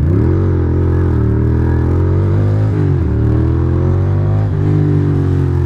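Ducati Monster's V-twin engine running under throttle, its pitch climbing slowly, dipping sharply about three seconds in, then climbing again.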